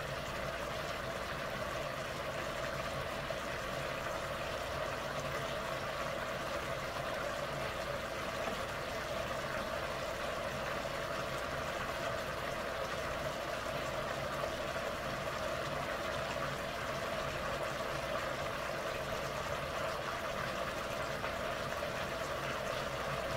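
Potatoes and carrots frying in a pot, a steady, even sizzle.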